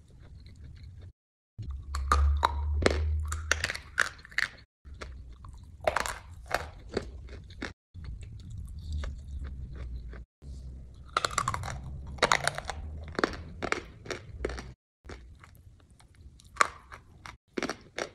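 Close-miked chewing of crunchy food: crisp, rapid crunches as mouthfuls are bitten and chewed, in several bursts broken by abrupt silent cuts, loudest about two to four seconds in.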